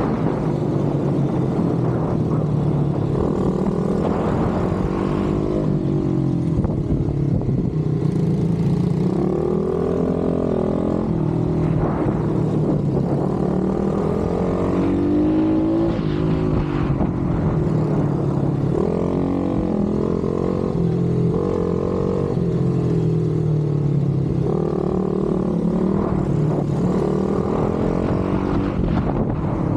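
Pit bike engines racing, revving up and falling back again and again as the riders accelerate and shift, with the pitch rising and dropping every couple of seconds.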